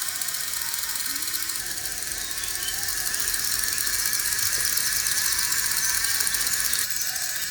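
Small electric motor and plastic gears of a DIY model tractor whirring with a gear rattle, a little louder from about halfway in.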